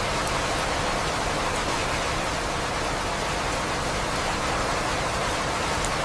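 Steady, even hiss of rain falling, with a few faint high ticks of drops.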